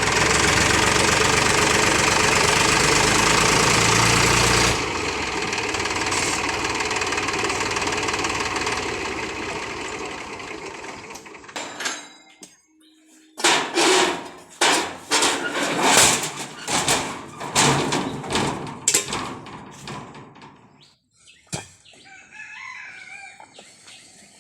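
Tractor engine running loudly, easing after about five seconds and fading out, followed by a run of sharp irregular knocks and clatters.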